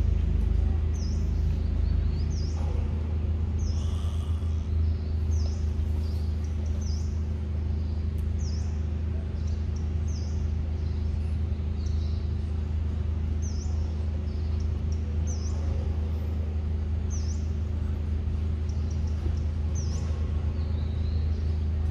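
A bird repeats a short, high, falling chirp about once every second or so, over a steady low hum.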